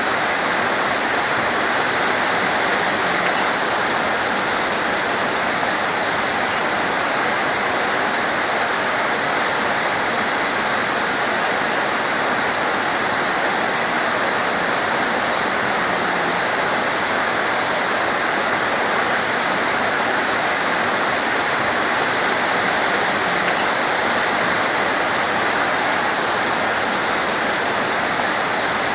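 Torrential rain falling steadily, a dense unbroken hiss, with one brief tick about halfway through.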